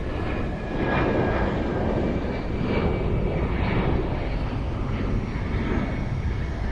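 Jet airliner engines running, a steady rushing noise with a faint high whine over it.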